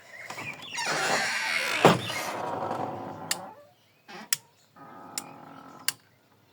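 Handling and rustling noise with a sharp knock about two seconds in, then several short clicks, as solar-powered lights are switched off by hand.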